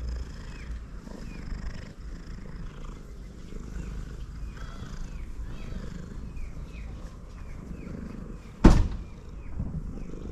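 Male cat purring loudly as a steady, low rhythmic rumble. A single sharp knock about eight and a half seconds in is the loudest sound.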